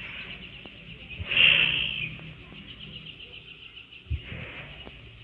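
Birds chirping in quick repeated calls, with a louder call about a second and a half in and a couple of soft low thumps.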